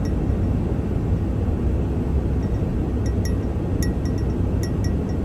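Steady low rumble of a vehicle driving at road speed, heard from inside the cab, with a few faint light ticks or rattles now and then.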